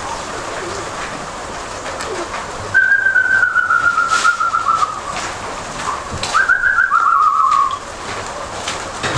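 Two trilled whistles, each sliding down in pitch. The first lasts about two and a half seconds, the second about a second and a half. Steady wind noise runs underneath.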